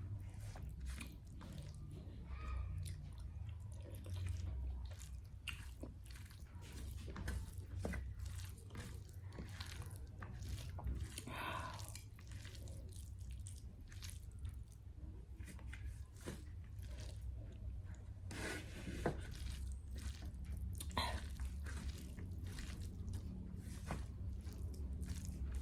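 Close-miked eating sounds: chewing and biting with irregular small clicks and crunches over a low steady hum.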